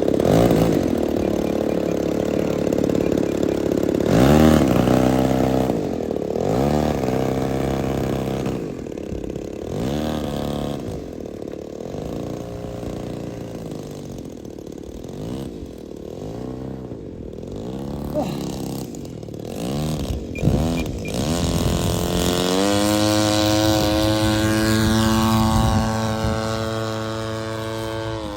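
Seagull Models Shock Cub's engine and propeller, revved up and down over and over, then opened up and held at a high steady pitch about twenty-two seconds in.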